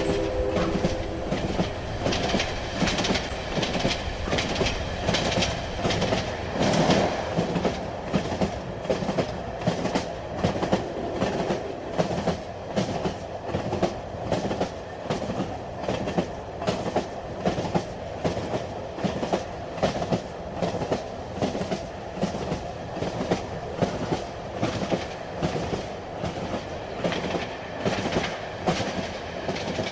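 Train running on the rails, heard from on board: a steady rumble with a regular clickety-clack of the wheels over rail joints, about two clacks a second. A short tone dies away about a second in.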